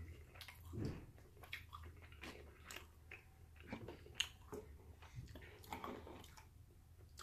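Faint chewing and wet mouth smacks of a person eating, with small irregular clicks, one a little louder about four seconds in.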